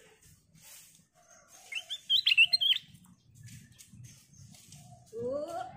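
Black-crested bulbul singing: a loud, quick phrase of clear whistled notes about two seconds in, lasting about a second. Near the end a lower-pitched call begins, sliding upward.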